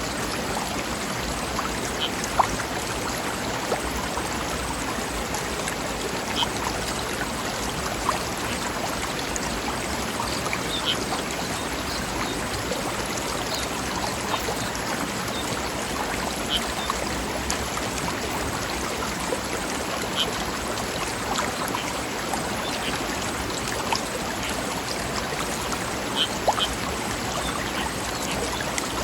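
Stream running over rocks, a steady rush of water with small splashes and plops scattered throughout.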